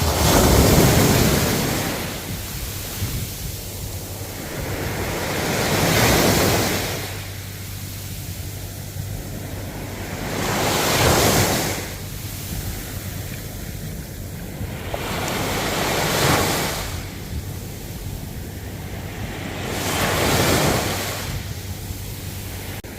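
Ocean waves breaking, with a surge of surf about every five seconds and a steady wash between them.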